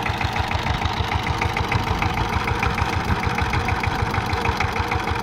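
Saifing 12 hp single-cylinder diesel engine of a power tiller running steadily, with an even, rapid low thudding.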